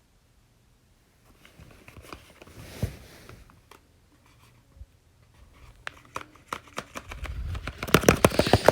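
Close handling noises: light rustling, then a run of sharp clicks and taps that grows louder and quicker near the end.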